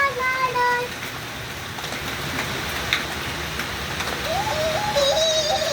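Steady rain falling, an even hiss throughout. A child's singing voice is heard briefly at the start and again from about four seconds in.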